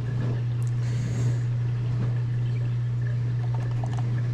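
Home espresso machine's pump humming steadily while it brews, a loud even low drone with a few faint clicks over it.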